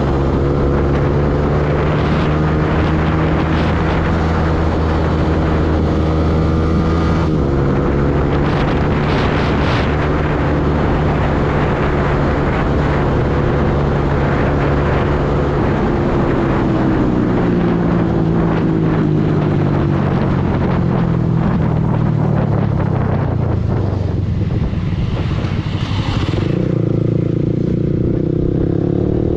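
Yamaha R15 V2 motorcycle's single-cylinder four-stroke engine running under way, its note falling and rising with changes in speed, with wind noise on the microphone. About three quarters through the engine briefly drops off, then climbs again near the end.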